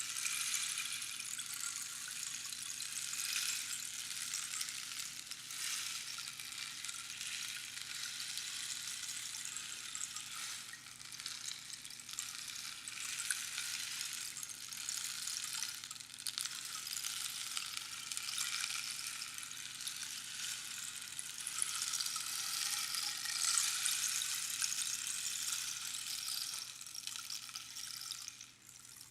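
Rainstick, its pebbles trickling past the inner pins in a continuous hissing patter like falling rain, swelling and easing, with a brief drop near the end.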